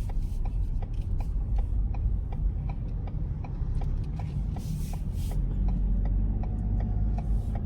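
Inside a moving car: steady road and engine rumble with a turn-signal indicator ticking evenly, about three clicks a second. A brief hiss rises and falls about five seconds in.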